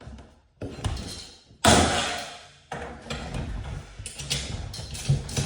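A few sharp knocks and bangs of tools and garage-door hardware being handled. The loudest, about one and a half seconds in, rings on for nearly a second, and lighter clatter follows near the end.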